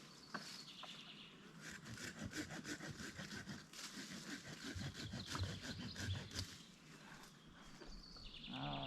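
Branches and brush rustling, cracking and snapping as a small tree is worked out of a garden, in a dense irregular run that eases off about two-thirds of the way in. Birds sing in the background.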